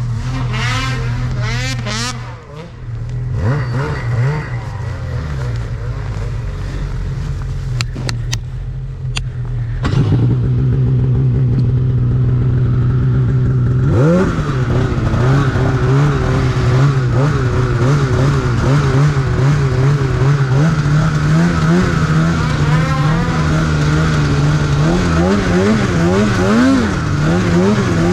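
Snowmobile engine running, throttle opened about ten seconds in and then held at high revs, the pitch wavering up and down as the sled is worked under load.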